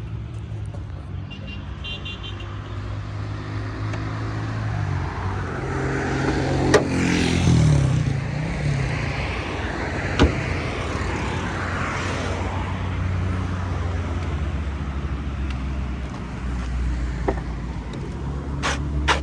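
Volkswagen Polo's engine running while driving, its note stepping and gliding up and down in pitch, with a swell of road or passing-traffic noise in the middle and two sharp knocks, one about 7 s in and one about 10 s in.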